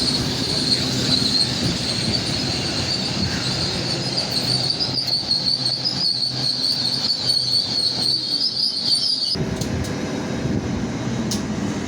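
Great Western Railway Class 802 train moving along the platform with a steady high-pitched wheel squeal over a low rumble. The squeal cuts off suddenly about nine seconds in, leaving the rumble.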